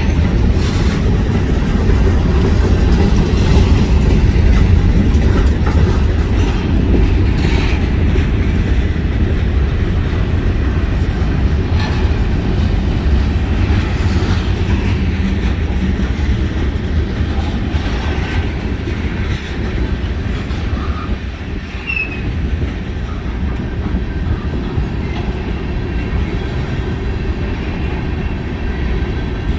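Freight cars of a long CSX mixed freight train rolling past: a steady, loud rumble of steel wheels on the rails, with occasional clanks and a brief faint squeal about two-thirds of the way through.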